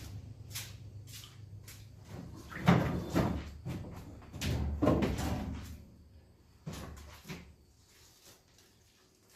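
A series of knocks and clunks, loudest in a cluster between about three and five seconds in, with two lighter knocks after; a low rumble fades out before them.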